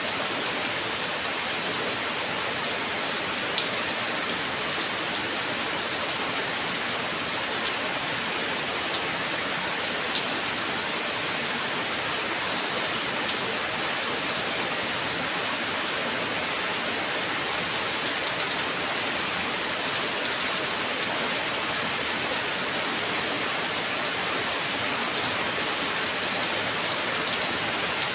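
Heavy rain falling steadily, an even hiss of rain on surfaces with a few sharper drop ticks now and then.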